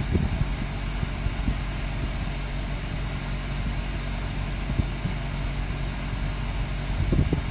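Steady low mechanical hum with an even hiss behind it, running without a break, with a few faint knocks.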